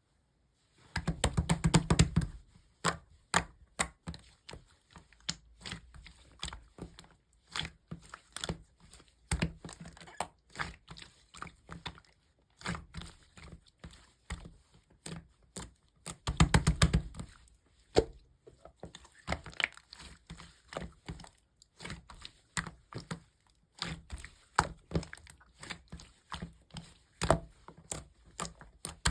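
Slime being squished and pressed by hand, giving an irregular string of sticky clicks and snaps, with denser bursts of crackling about a second in, around the middle and at the end.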